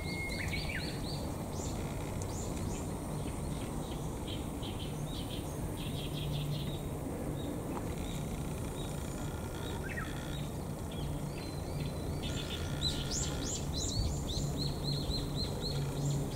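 Wild birds chirping in woodland: quick series of short high chirps with a few whistled notes, busiest a couple of seconds in and again near the end. A steady low hum runs underneath.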